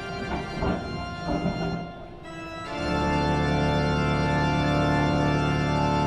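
Organ music playing held chords, which swell into a louder, fuller chord about three seconds in and hold.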